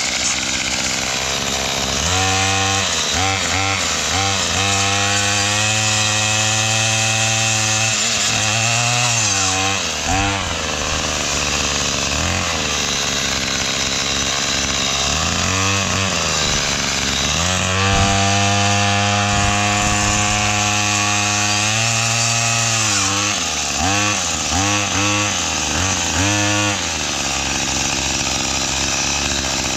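Gas string trimmer with a chainsaw-tooth brush cutter blade cutting into saplings, its engine revving up and down over and over, held at full throttle for several seconds at a time with quick short blips of the throttle near the end. The revs sag as the blade bites into the wood and gets lodged now and then.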